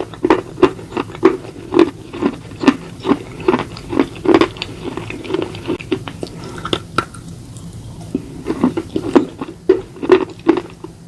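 Slate pencil and slate bar being bitten and chewed close to the microphone: a steady run of brittle crunches, about three a second, with a short lull about seven seconds in before the crunching resumes.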